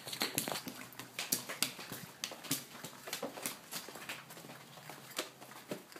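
Footsteps of people walking, an irregular run of short crunching steps and knocks with some rustling.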